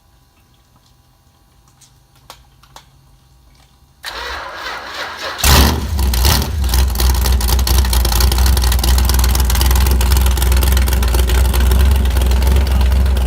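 Rebuilt Chrysler 440 big-block V8 on an engine stand being started cold: the starter cranks it about four seconds in, it catches a second and a half later and runs loud and steady.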